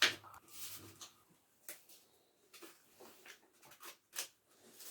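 Scissors cutting through folded paper: a series of short, irregular snips with light paper rustling.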